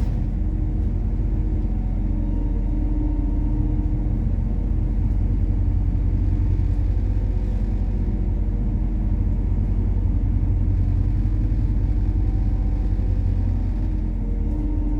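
Methane-fuelled MAZ-103 city bus heard from inside the cabin while running: a steady low engine drone and road rumble that holds even throughout.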